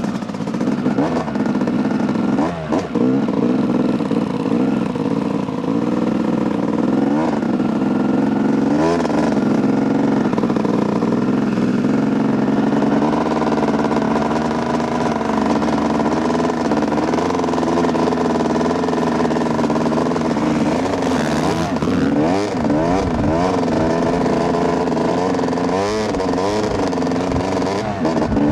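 2008 Yamaha YZ250's single-cylinder two-stroke engine running as the dirt bike rides along, mostly at a steady pitch, then revving up and down repeatedly through gear and throttle changes near the end.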